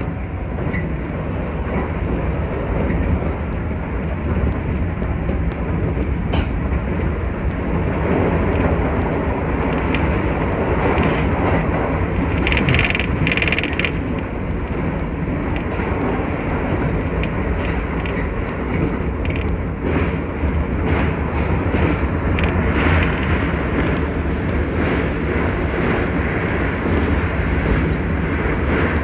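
Keisei 3000-series electric train running at speed, heard from inside the front car: a steady rumble of wheels on rail with frequent light clicks. A brief higher-pitched sound comes about 13 seconds in.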